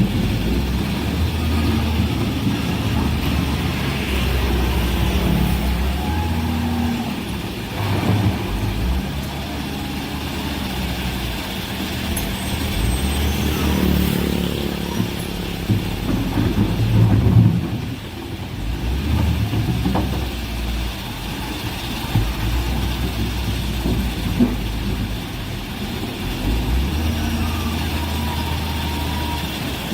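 Heavy earthmoving machinery's diesel engines running and changing load, with a few short knocks or clanks from the machines' work.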